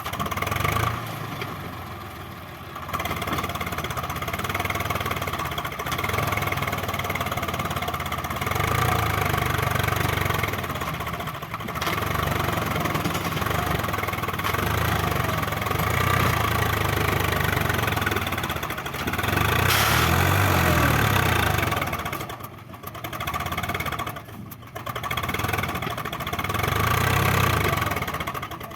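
Tractor diesel engine running continuously, its revs rising and falling repeatedly, with two brief drops near the three-quarter mark.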